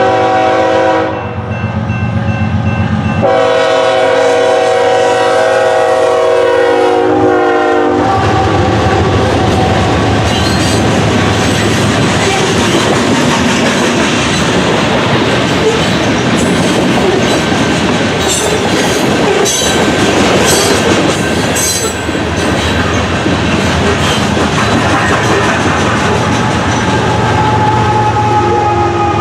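Train horn sounding a chord of several tones: a short blast, then a longer one of about four seconds. The train then passes close, its wheels clattering steadily over the rails.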